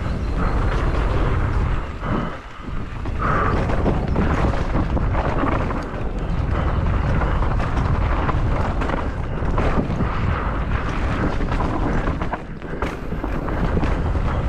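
Wind buffeting the microphone of a mountain bike descending fast, with the bike rattling and knocking over rough trail. There are brief lulls about two and a half seconds in and again near the end.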